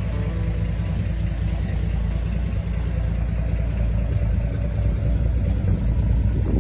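1951 Chevrolet 3100 pickup's inline six-cylinder engine running steadily, getting a little louder near the end.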